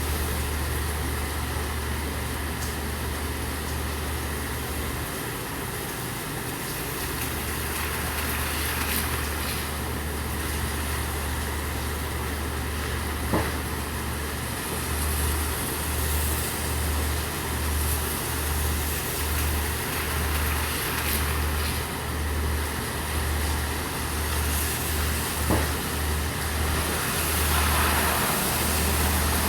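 Steady rain falling, over the low drone of an idling truck engine. The drone holds steady at first, then throbs on and off about once a second from roughly halfway through. Two sharp ticks stand out, one near the middle and one near the end.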